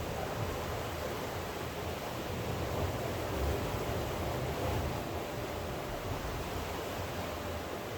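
Steady wash of rain and sea surf, an even rushing noise with no distinct events.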